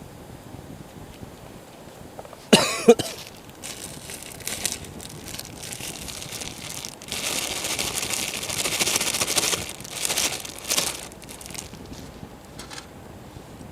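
Crinkling, rustling handling noise, loudest for about four seconds in the middle, after a short, sharp squeaky sound a couple of seconds in.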